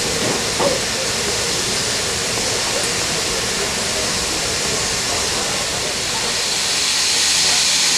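Steam locomotive hissing steadily as steam escapes. The hiss grows louder about seven seconds in.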